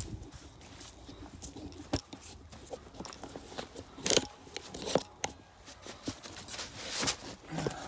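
Irregular clicks, scuffs and knocks of objects being handled and moved, with sharper knocks about four and five seconds in and again near seven seconds.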